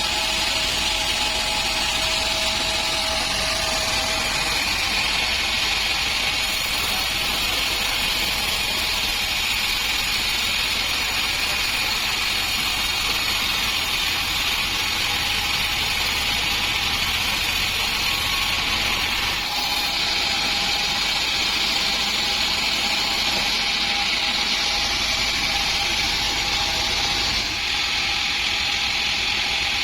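A sawmill's 48-inch band saw running steadily through a dry acacia log, a continuous hissing whir with a faint hum underneath. The tone shifts slightly about two-thirds of the way through.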